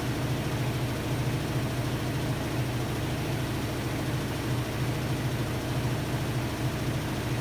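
Hotpoint-Ariston AQD972F washer-dryer running mid-cycle: a steady low hum over an even hiss, with no breaks.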